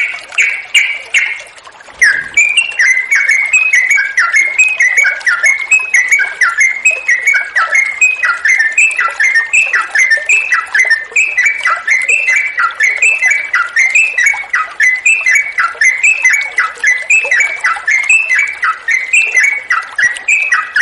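Sooty-headed bulbul singing a long, fast run of short chattering notes, several a second. There is a brief break about two seconds in.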